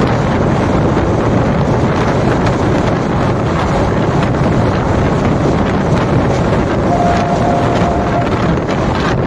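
Express passenger train running at speed, heard from on board: a steady rumble of wheels on track mixed with wind buffeting the microphone. A faint steady tone sounds for just over a second about seven seconds in.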